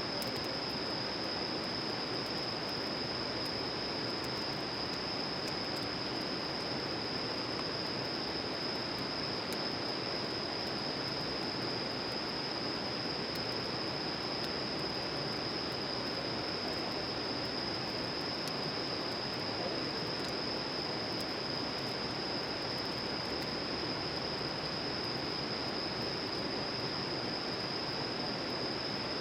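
Steady outdoor background: an even rushing noise with a continuous high, steady tone above it, and no clear events.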